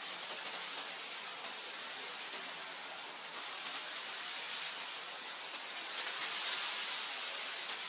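Wind blowing through grass: a steady hiss that swells for a moment about six seconds in.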